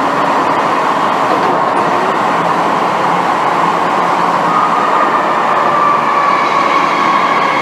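Inside an MTR M-Train passenger car running through the tunnel, with a loud, steady rumble of wheels and running gear. A high whine rises out of the noise about two-thirds of the way in and gains higher overtones toward the end.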